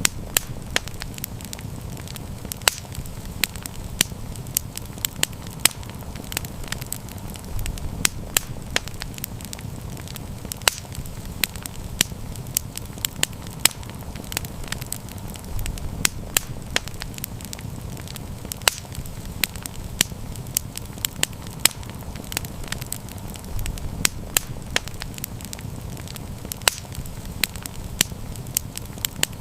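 Campfire crackling and popping: frequent sharp, irregular snaps over a steady low rumble of the burning fire.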